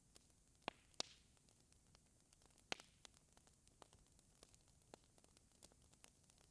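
Faint fireplace fire crackling: irregular small ticks and snaps, with a few louder pops about a second in and again near three seconds.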